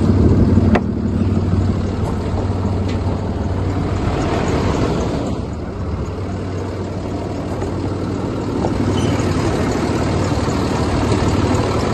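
Cummins 6.7-litre inline-six turbodiesel idling steadily, with a single sharp click about a second in.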